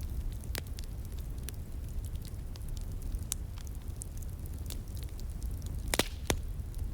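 Wood fire crackling with scattered sharp pops, two louder pops close together about six seconds in, over the steady low rush of a flowing stream.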